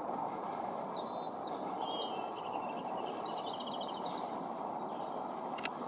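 A small songbird singing one short phrase of high whistled notes ending in a fast trill, over a steady low background rumble.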